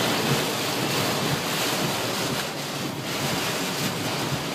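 Heavy wind-driven rain beating steadily on a minivan's roof and windshield, with storm wind, heard from inside the cabin.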